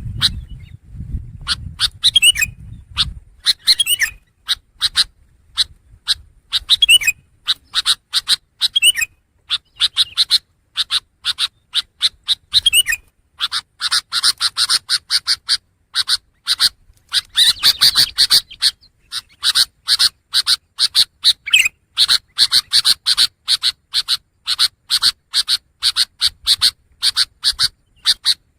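Long-tailed shrike (pentet) singing: fast runs of short, scratchy chattering notes with a few quick rising whistles. The song grows denser and almost unbroken about halfway through.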